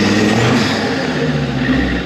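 Off-road competition car's engine revving up and down as it is driven over a rough, muddy track, its pitch rising and falling.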